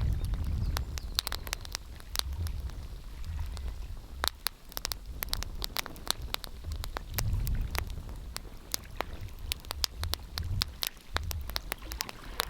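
Wood fire crackling in a fireplace: irregular sharp pops and snaps over a soft hiss, with a low rumble swelling near the start and again about seven seconds in.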